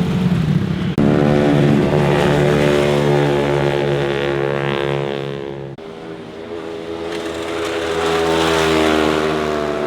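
Motorcycle engines passing at speed, each held at a steady high rev. The first engine note starts abruptly about a second in and cuts off sharply just before six seconds. A second bike's engine note then swells and fades.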